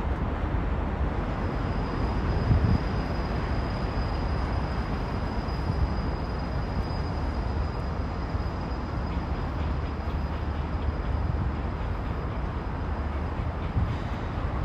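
Steady low mechanical rumble mixed with an even outdoor noise, with a faint high-pitched whine that starts about a second in and fades near the end.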